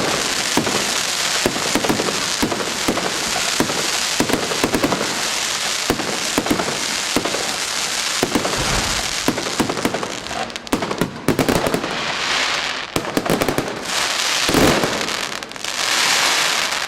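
Aerial fireworks display: dense crackling from bursting shells, with many sharp bangs following close on one another and one especially loud bang about three-quarters of the way through.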